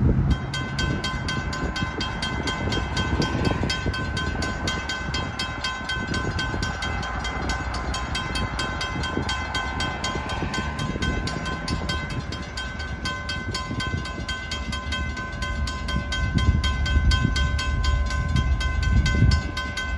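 Railroad grade-crossing bell ringing in rapid, even strokes, starting right at the beginning, over the low rumble of the approaching freight train, which grows louder near the end.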